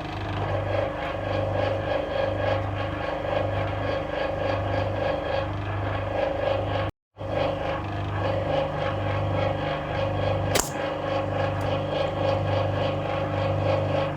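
A 1966 Bendix LA automatic washing machine draining, its pump running with a low hum that swells and fades in a regular beat. The sound cuts out briefly about halfway, and there is a single sharp click near the end.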